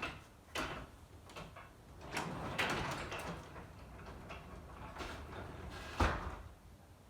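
Sectional garage door being pulled down by hand, its rollers and panels clicking and rattling in the tracks, ending with one heavy thud about six seconds in as it lands shut on the floor.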